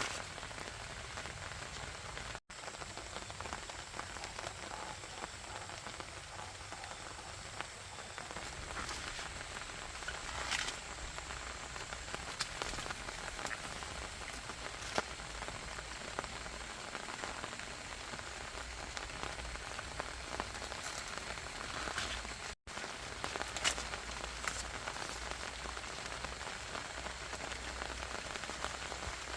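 Steady rain falling on a surface, with a few sharper drip-like ticks, and two brief cuts to silence.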